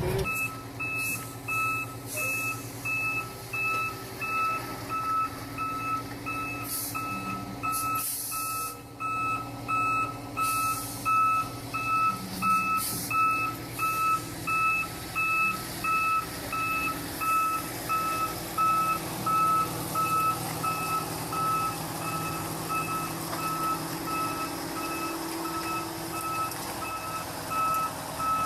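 A heavy truck's reversing alarm beeping steadily at one fixed pitch, roughly once a second, over the steady hum of a diesel engine running.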